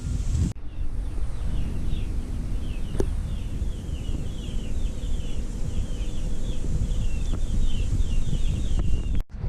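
Birds chirping rapidly, many short high calls repeating one after another, over a steady low rumble; a single sharp click about three seconds in.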